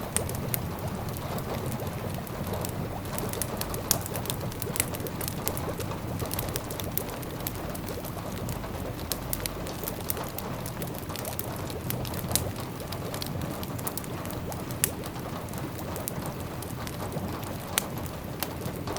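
Fireplace ambience: a wood fire crackling with scattered sharp pops, over rain pattering and a steady low murmur.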